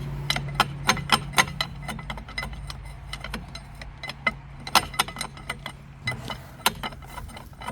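Hand tools working on the steel bolts of an excavator's sprocket: a run of sharp, irregular metal clicks and clinks, several a second, over a steady low hum.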